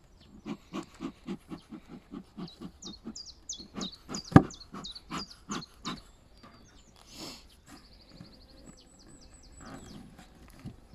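Small birds singing, with high, quick descending notes and a short trill. Underneath, for the first half, runs a quick, even series of soft thuds, about four a second, and there is one sharp click near the middle.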